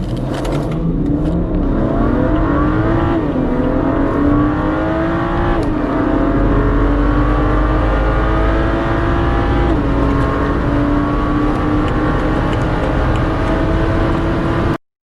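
BMW turbocharged straight-six engine under full-throttle acceleration through the gears. The pitch climbs and drops at each of three upshifts, with each gear pulling longer than the one before. The sound cuts off suddenly near the end.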